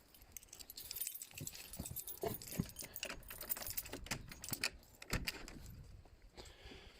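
Small metal objects jangling and clinking in a run of light clicks and rattles, busiest in the middle and thinning out near the end.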